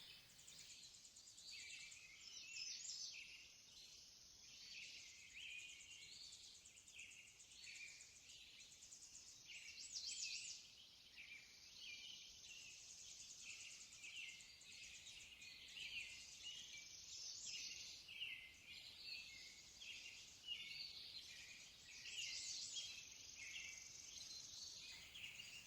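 Faint background birdsong, many short high-pitched chirps scattered throughout over a steady thin hiss.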